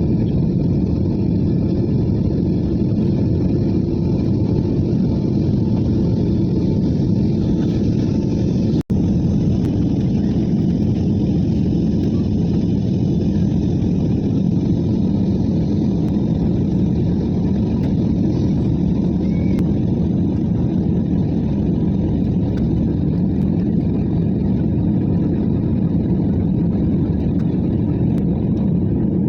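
Airliner engines and rushing air making a steady low rumble, broken once by a split-second gap about nine seconds in.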